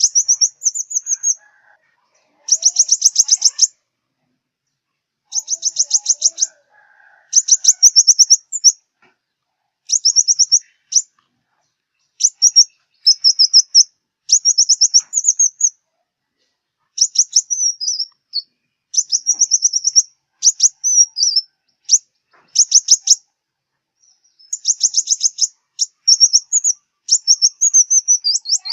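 Sunbird ('five-colour' sunbird) song: short, high, rapid trilled phrases of about a second each, repeated over and over with brief pauses between.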